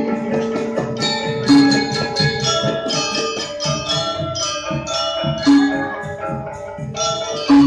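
Balinese gong kebyar gamelan playing: fast, dense strikes of bronze metallophones with ringing overtones, and a louder, deeper note recurring every couple of seconds.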